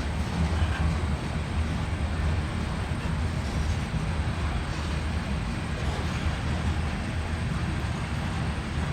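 Iowa Northern freight train rolling by: a steady low rumble of locomotives and freight cars running on the rails.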